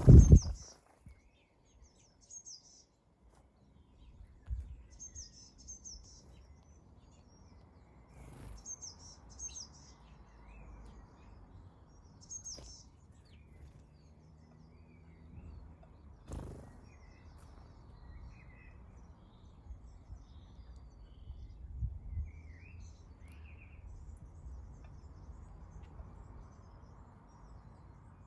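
Garden birds chirping: short bursts of high chirps every couple of seconds through the first half, then fainter scattered calls. A loud thump right at the start.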